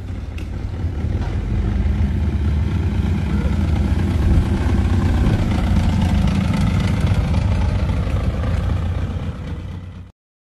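A car engine running, low and steady, building over the first couple of seconds and cutting off abruptly near the end.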